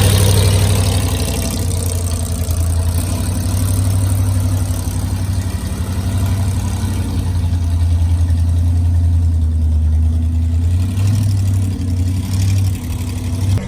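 Monster truck's big engine idling with a loud, steady low rumble, rising a little a couple of times near the end.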